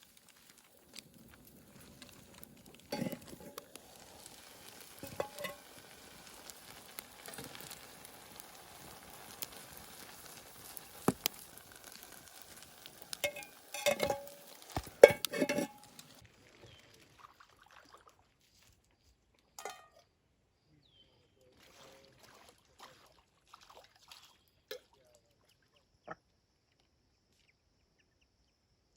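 Food sizzling in a pan, with utensils stirring and knocking against it; the knocks are loudest just before the sizzling stops, about halfway through. After that come only a few scattered clicks.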